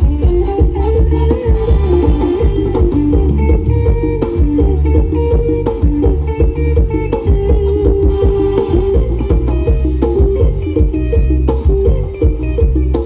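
Loud live band music from a Thai procession sound truck: a fast plucked-string melody over heavy bass and a drum kit, recorded through a phone's microphone.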